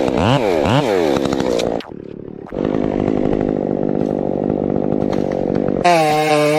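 Chainsaw engine revved up and down about three times in quick succession, then running at a steady speed. Near the end it changes abruptly to another chainsaw running at a higher pitch.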